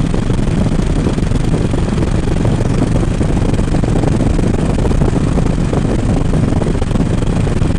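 Harley-Davidson Road King's V-twin engine running steadily on the road, with road and wind noise mixed in.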